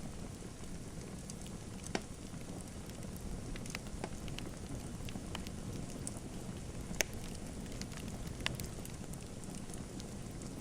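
Wood fire in a fireplace crackling: a steady low rumble and hiss of the flames with scattered sharp pops, three louder ones about 2, 7 and 8.5 seconds in.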